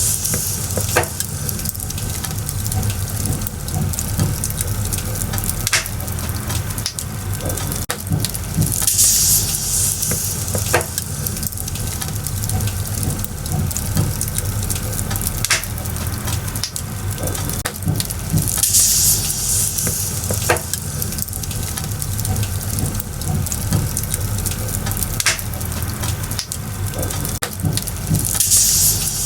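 Burning firewood crackling: a steady low rumble and hiss with scattered sharp pops and snaps. A brief, louder high hiss swells up three times at even spacing, about every ten seconds.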